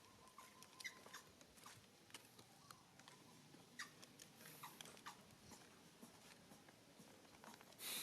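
Faint scattered clicks and brief high squeaks from a baby monkey, very quiet overall.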